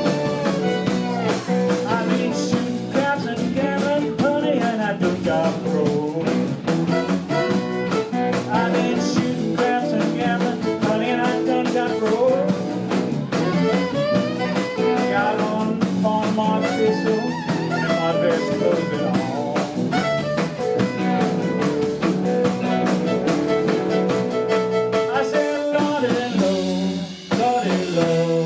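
Live blues band of guitar, violin and drums playing an up-tempo blues, with bending melody notes over a steady beat. The band drops out briefly near the end before coming back in.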